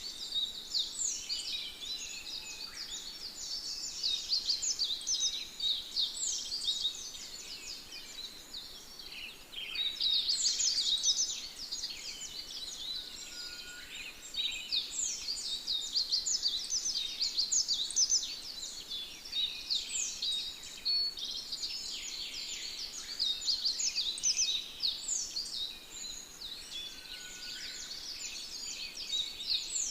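A dense chorus of many birds chirping and singing at once: quick, high notes overlapping without a break, swelling louder and fading back every few seconds.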